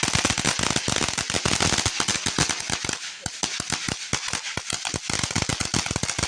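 Consumer fireworks going off in a dense, rapid run of small pops and crackles, many a second, thinning briefly about three seconds in.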